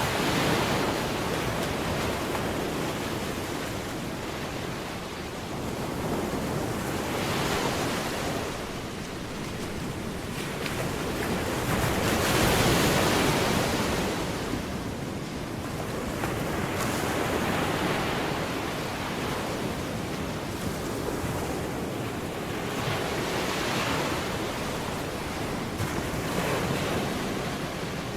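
Waves breaking and washing in, a rushing noise that swells and fades every five seconds or so.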